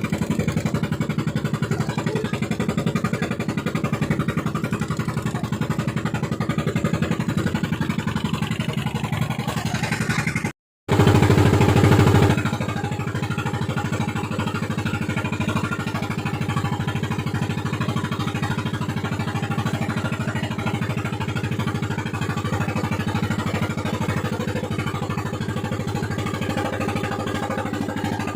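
Fishing boat's engine running steadily. It cuts out for a moment about a third of the way in, comes back louder for about a second and a half, then settles to the same steady running.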